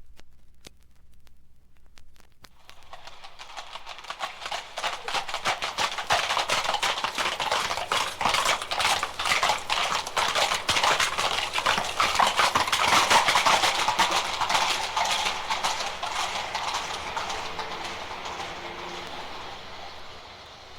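Clip-clop of horses' hooves going by: faint at first, building to their loudest a little past the middle, then fading away.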